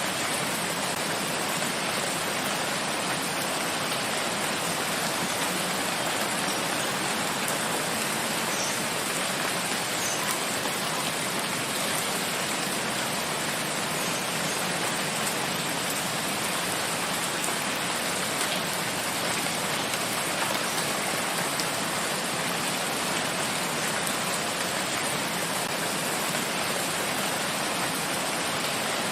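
Steady, even rain falling on a forest, a dense hiss with faint scattered drop ticks.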